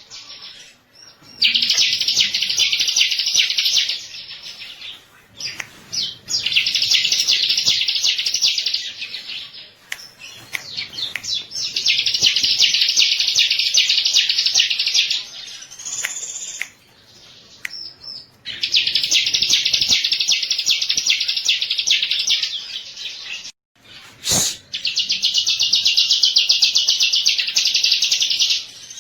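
Bar-winged prinia (ciblek) singing: a string of five long, rapid, high-pitched trilling phrases, each about three seconds, separated by short pauses.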